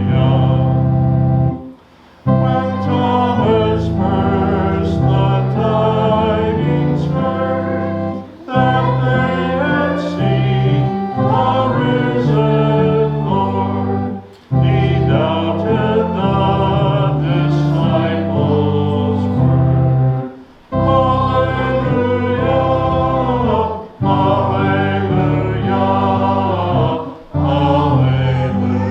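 A hymn sung by voices with organ accompaniment, in phrases of about six seconds, each followed by a short break.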